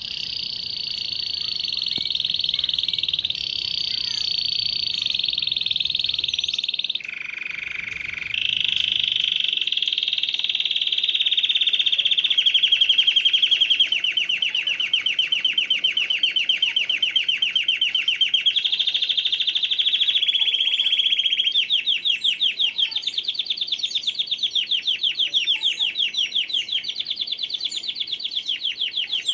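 Canary singing one long unbroken song of trills, switching to a new phrase every few seconds, with a lower phrase about seven seconds in and fast pulsing rolls through the second half. Faint short chirps of other birds sound above it.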